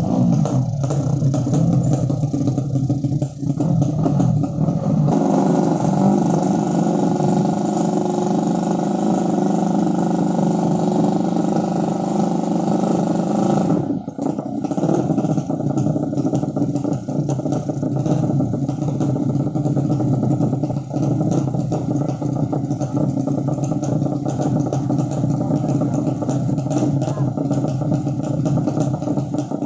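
Modified 200 cc underbone drag-racing motorcycle engines running loudly at high revs. The sound stays mostly steady, with a change in pitch about five seconds in and a brief dip and change about fourteen seconds in.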